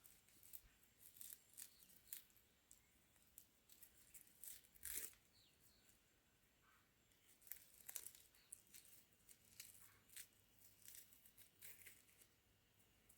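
Faint, irregular crisp clicks and crackles, several a second, with louder ones about five and eight seconds in.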